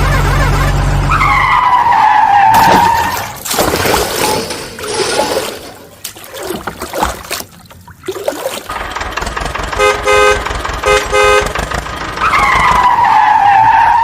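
Cartoon vehicle sound effects: an engine hum, twice a falling pitched tone, and a series of short horn toots about two-thirds of the way in.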